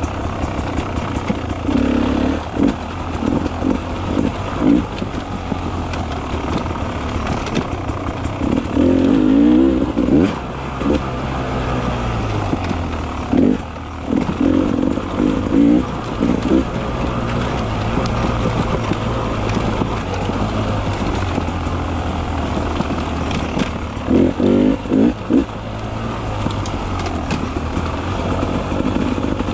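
Beta 300 RR two-stroke single-cylinder enduro motorcycle running on single track. A steady low engine note is broken by several short bursts of throttle.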